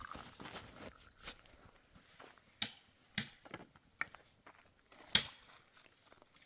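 Several sharp knocks at irregular intervals, the loudest about five seconds in, over faint rustling at the start.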